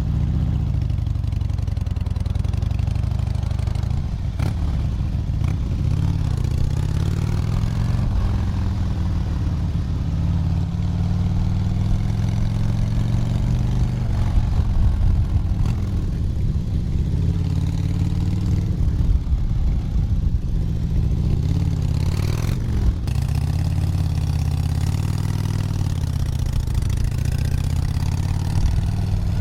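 Motorcycle engine running steadily at highway cruising speed, its pitch rising and falling gently with the throttle. A brief rush of noise passes about three quarters of the way through.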